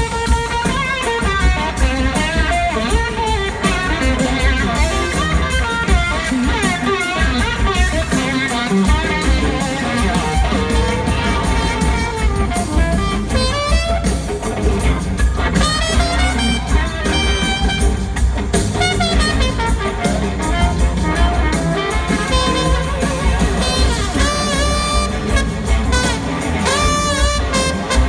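Live band playing an instrumental passage of a soul-rock song: electric guitar and horns over bass and drums, with gliding guitar notes in places.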